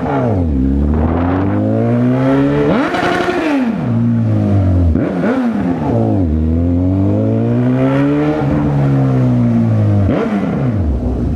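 Honda CB1000R's inline-four engine under way, its pitch climbing under throttle and dropping back several times as the rider accelerates, eases off and shifts.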